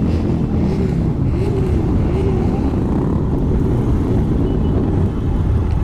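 A group of heavy motorcycles idling and revving together: a dense, steady low rumble with short rising-and-falling swells in pitch every half second or so.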